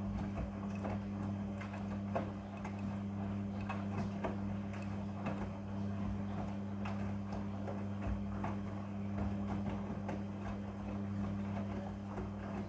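Midea front-loading washing machine running a quick wash: a steady motor hum with a constant patter of light clicks and knocks as the drum tumbles the load. The sound cuts off suddenly at the very end.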